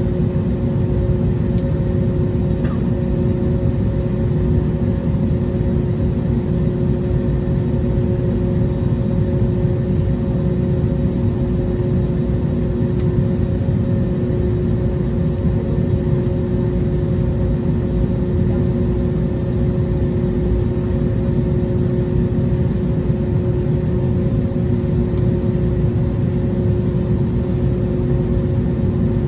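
Airbus A321neo's jet engines running steadily: an even low rumble with a constant hum on top.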